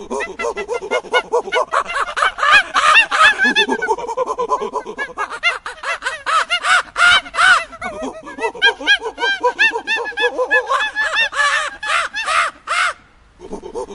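Birds calling: a dense run of short calls in quick succession, often overlapping, with a brief pause near the end before more calls begin.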